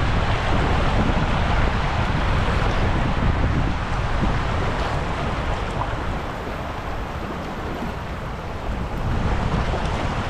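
Wind rumbling on the microphone over the wash of river water, easing off somewhat about six seconds in and picking up again near the end.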